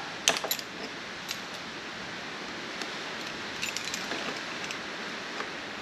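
A few light metallic clicks and clinks from a motorcycle chain and its rivet link being handled while a chain press tool is set up on it, the sharpest about a third of a second in and a small cluster of ticks near two-thirds through, over a steady background hiss.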